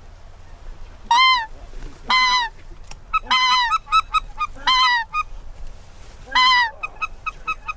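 Hand-blown goose call sounding five loud honks, each with a quick break in pitch, spaced about a second or more apart, with runs of short, fainter clucks between them. It is blown unskillfully, by a hunter who says he doesn't know how to use it very well.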